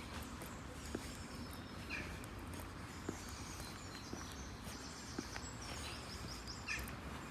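Footsteps on pavement, a sharp step now and then, over a steady low background hum, with birds chirping.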